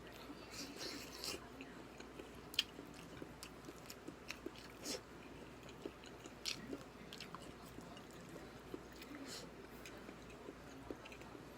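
A person chewing and eating close to the microphone: irregular small wet smacks and clicks, with one sharper click about two and a half seconds in.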